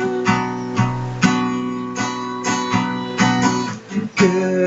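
Acoustic guitar strummed in chords, with a brief break about four seconds in before the strumming resumes.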